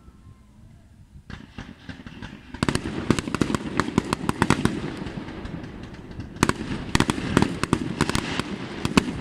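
Aerial fireworks display: after a quiet first second, shells bursting in a rapid string of sharp bangs and crackles, dense and continuous from about two and a half seconds in, with the loudest bangs near the end.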